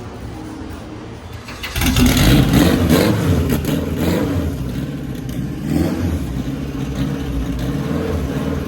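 Car engine starting up about two seconds in, then running loudly.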